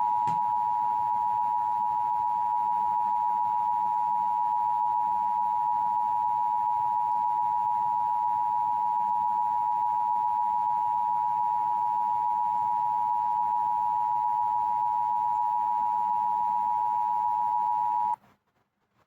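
Emergency Broadcast System attention signal: two steady tones sounded together in one unbroken, unchanging note, warning that an emergency announcement follows. It cuts off suddenly about 18 seconds in, leaving faint room noise.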